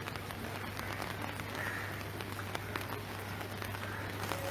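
Steady noise of heavy monsoon rain and floodwater, with many small scattered patters over a low steady hum.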